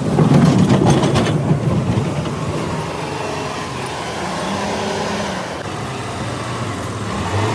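A heavy vehicle's engine running steadily, louder for the first second and a half.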